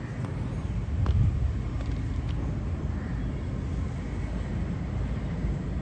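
Low, steady rumble of a train approaching along the track, with a few faint clicks.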